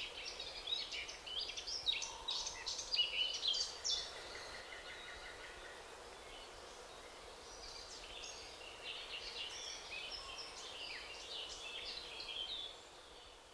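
A songbird singing in two bouts of quick, varied high chirps and trills, the first ending about four seconds in and the second starting about eight seconds in, over faint steady outdoor background noise.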